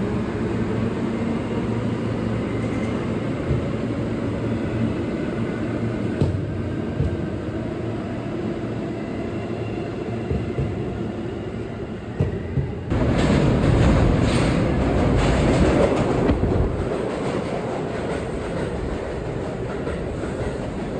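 New York City subway train running through the station, a steady low rumble of wheels on rail. About thirteen seconds in, a much louder rush of wheel and rail noise sets in suddenly, lasts a few seconds, then eases back to the rumble.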